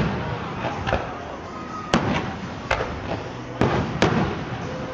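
Aerial firework shells bursting overhead: about five sharp bangs in a row, roughly one a second.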